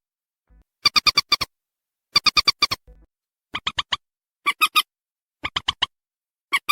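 Mandar sawah (a rail) call played as a bird-trapping lure: quick bursts of three to six short, sharp notes, repeated about once a second with brief silences between.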